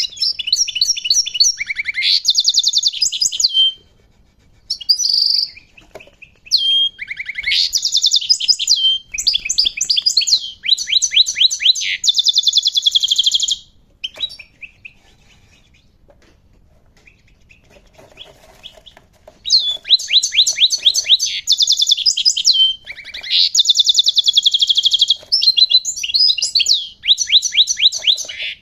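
European goldfinch singing: fast twittering phrases of rapid trills and quick repeated notes. It sings in two long bouts, with a pause of about five seconds in the middle.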